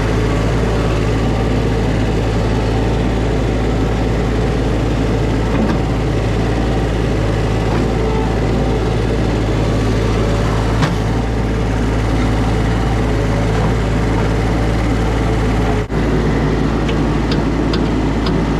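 Mini skid steer's engine idling steadily, with a few light clicks near the end.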